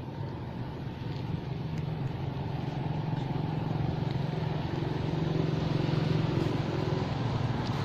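A motor vehicle engine running, a steady low hum that grows louder over several seconds.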